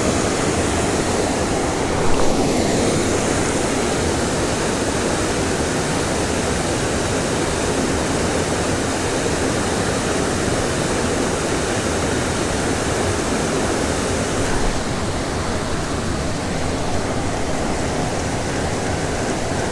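Small stream waterfall pouring steadily into its plunge pool, a constant rushing of water.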